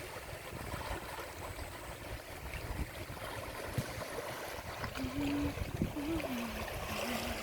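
Running water of a stream, a steady wash of flowing water. About five seconds in, a faint low pitched sound like a voice humming joins it.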